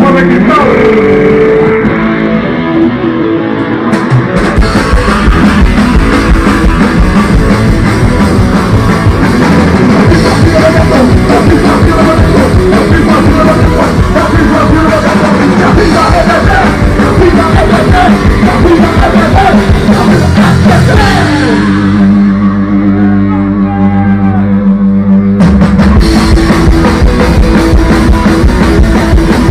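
Live rock band playing loud, guitar-driven rock. Electric guitar opens alone and the drums come in about four seconds in. Near the end the drums drop out for a few seconds under held guitar chords, then the full band comes back in.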